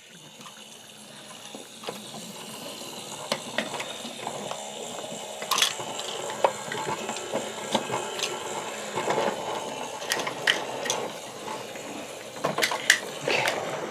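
Battery-operated Thomas wooden-railway engine's small electric motor whirring as it runs along wooden track, with scattered clicks and knocks. It grows gradually louder over the first several seconds.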